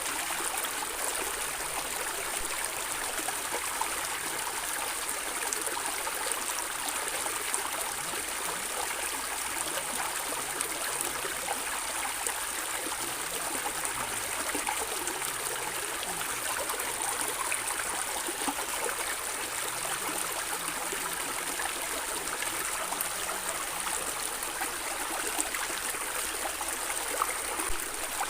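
Stream water flowing and gurgling steadily over stones, a constant rushing hiss with small splashes and trickles.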